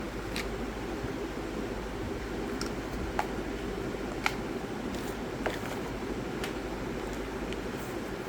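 A steady low rumble with three short, sharp light clicks in the middle, a second or so apart.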